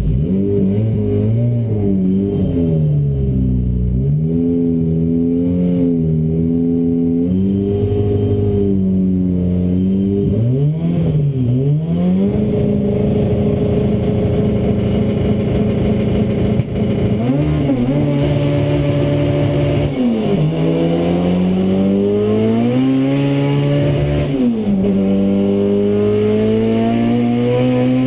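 Saab NG900 drag car's engine heard from inside the cabin: revved up and down repeatedly at the start line, then held at steady high revs for several seconds. About 17 seconds in it launches and pulls hard, pitch climbing, with two upshifts where the revs drop sharply, a gearbox the owner calls mismatched to the engine's powerband.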